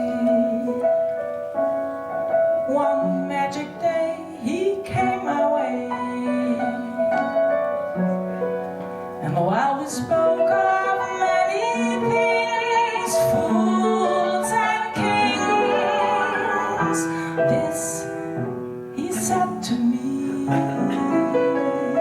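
Jazz ballad played on harp and piano, with a female voice singing without words and sliding between notes.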